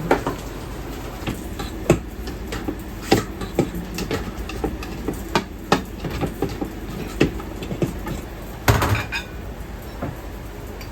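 Ramen-kitchen clatter: irregular clinks and knocks of utensils and bowls, with a louder cluster near the end, over a steady low rumble.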